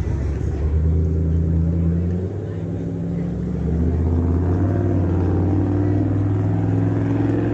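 Car engine running with a low, steady rumble, its pitch dropping slightly about two seconds in and rising again about four seconds in.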